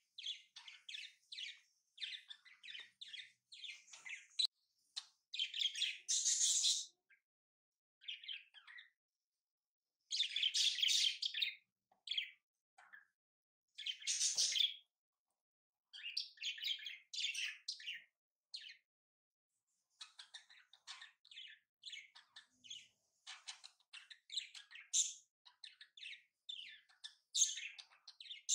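Birds chirping in quick runs of short notes that start and stop throughout, with silent gaps between the runs.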